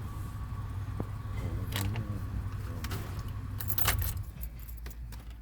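Keys jangling over the low, steady running of a vehicle engine, with a few sharp clinks, the loudest about four seconds in.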